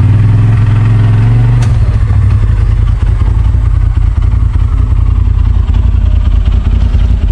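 Side-by-side UTV engine running at a steady higher speed, then about a second and a half in, with a click, dropping to a lower, uneven, pulsing run.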